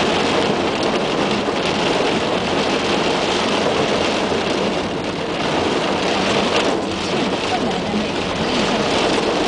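Heavy rain beating steadily on a taxi, heard from inside the cab, mixed with the car's running and road noise.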